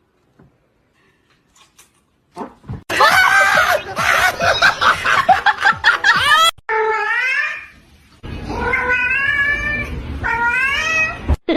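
Cats yowling and caterwauling. About two and a half seconds in, several drawn-out calls start at once and overlap for about four seconds, followed by a few separate meows that rise and fall in pitch.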